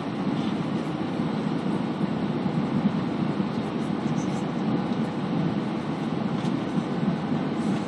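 Steady rumble inside the passenger cabin of an Airbus A320, the noise of its engines and airflow heard from a seat.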